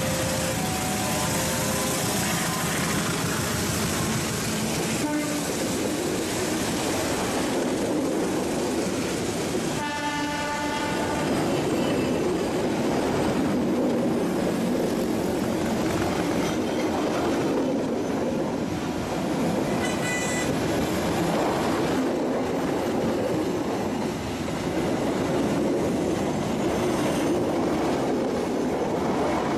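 Diesel-hauled passenger train passing close by: the steady rumble and rattle of the locomotive and then its coaches rolling past, with a horn blast of about a second and a half roughly ten seconds in.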